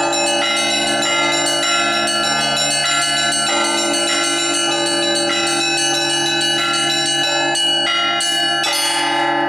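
Russian Orthodox church bell ringing (zvon): a set of hand-chimed bells, with quick strokes on the small bells over the sustained ringing of the larger bells. The strokes stop near the end and the bells ring out.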